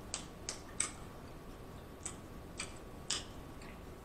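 Close-miked chewing with closed lips: a string of irregular wet mouth clicks and lip smacks, about eight in four seconds.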